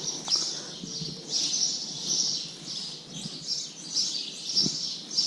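Birds chirping and singing, a dense chorus of high chirps that swells and fades every second or so.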